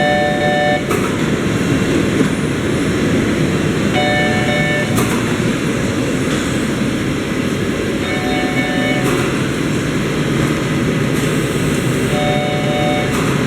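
Horizontal pillow shrink wrapping machine running with a steady, loud mechanical and blower noise. A tone of several pitches sounds for just under a second every four seconds, and a sharp click follows each one.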